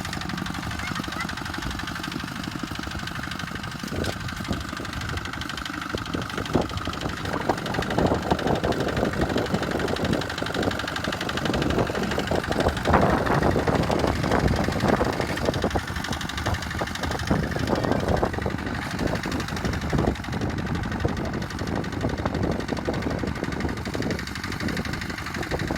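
Tractor engine running steadily, with irregular knocks and clatter that grow busier about six seconds in.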